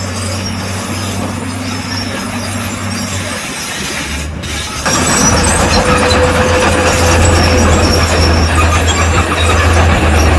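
Crawler bulldozer working: the engine runs with a steady low hum while the steel tracks clank and squeal. About five seconds in the sound changes abruptly to a louder, harsher track and engine noise.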